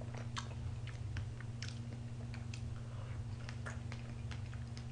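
Close-miked mouth chewing a bite of strawberries and whipped fresh cream from a cake: soft, wet, irregular smacking clicks. A steady low electrical hum runs underneath.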